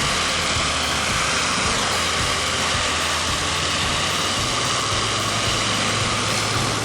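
Heavy machinery running steadily, a loud continuous mechanical noise with no breaks; a low hum comes in about five seconds in.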